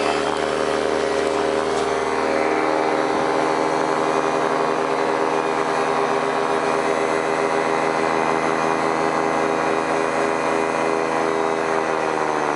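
Paramotor engine and propeller running loudly at a steady speed, the pitch holding constant.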